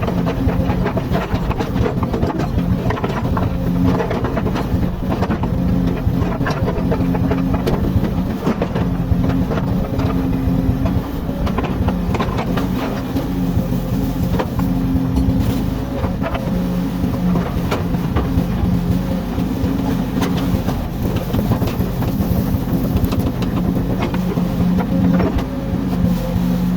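Komatsu hydraulic excavator's diesel engine running steadily under load, with frequent irregular clanks and knocks from the working machine.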